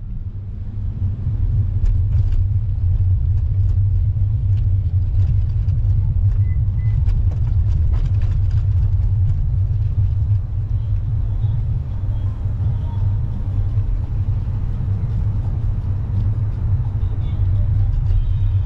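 Steady low rumble of wind buffeting the microphone of a camera on a moving bicycle, with faint scattered clicks.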